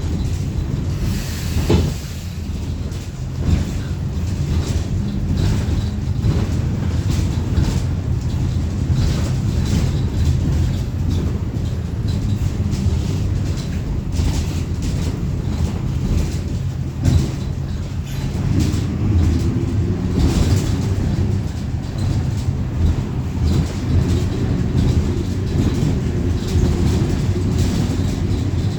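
Inside a moving Mercedes-Benz OF-1721 city bus with a Caio Apache Vip IV body: a steady low diesel engine and road rumble, with frequent rattles and knocks from the body and fittings and a couple of louder jolts.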